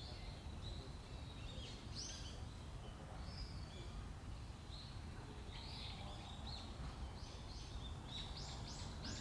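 Wild birds calling with short scattered chirps and whistles, over a steady low rumble of outdoor background noise. A quick run of sharp chirps comes near the end.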